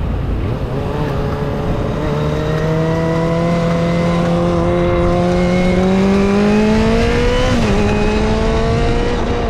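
A vehicle engine pulling under load, its pitch rising slowly for several seconds, dipping briefly about three-quarters of the way through and then running steady. A low rumble, like wind on the microphone, lies underneath.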